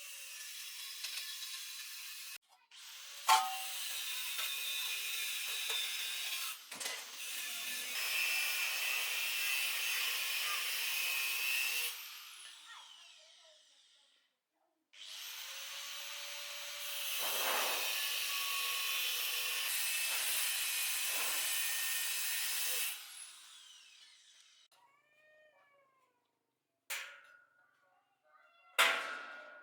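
A handheld electric power tool runs in two long stretches, each ending as the motor winds down. A few sharp clanks follow near the end.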